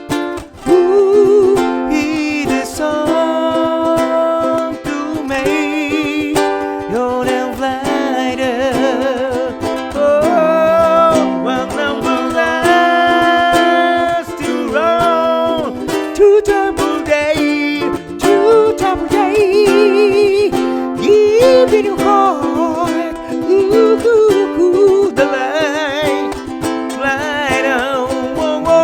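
Live ukulele accompaniment with singing, sung notes held with a wavering vibrato: an acoustic ukulele-and-vocal cover of a soul song.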